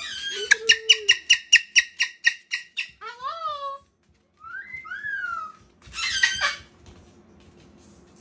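Pet parrot calling: a quick run of high squeaks, about four a second, then a few rising-and-falling whistles and a harsh squawk about six seconds in.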